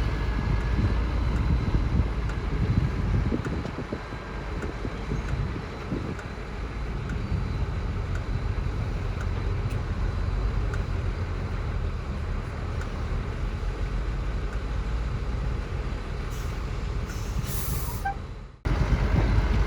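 Heavy diesel engine of earthmoving machinery running steadily under load. Near the end the sound briefly drops out.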